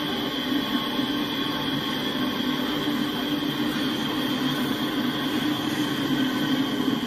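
Double-stack intermodal freight cars rolling past, a steady noise of steel wheels running on the rails.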